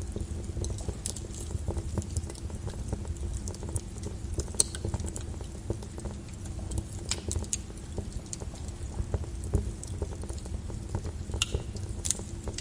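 Lava crackling and popping: scattered sharp clicks over a steady low rumble, with a few louder pops.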